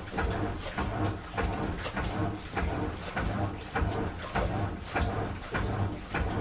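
Washing machine drum turning on a strong wash cycle, the wet laundry and water thudding and sloshing about twice a second. The thuds die away at the very end as the drum slows.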